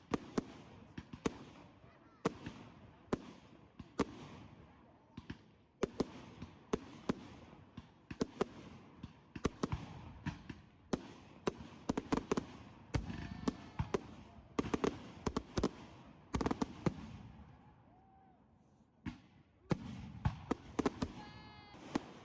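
Fireworks going off in rapid, irregular succession: many sharp bangs, each trailing off into crackle. They thin out for a moment near the end, then a few more bangs follow.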